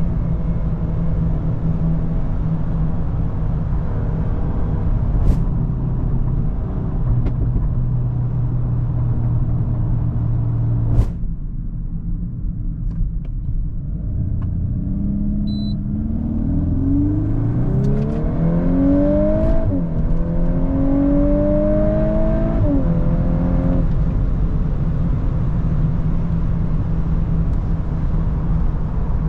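VW Golf 8R's turbocharged 2.0-litre four-cylinder with an Akrapovič exhaust running at a steady cruise, with a short sharp click about a third of the way in. Past the halfway point it accelerates hard, the engine pitch rising through one gear, dropping at a quick upshift and rising again, before easing back to a steady cruise.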